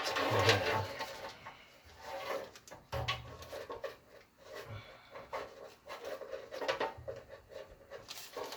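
Irregular clicks, knocks and scrapes of hands working a replacement igniter and its wire through the metal housing of a pellet grill.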